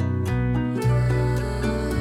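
Background music: gentle plucked guitar over a sustained bass line, with notes changing about every half second.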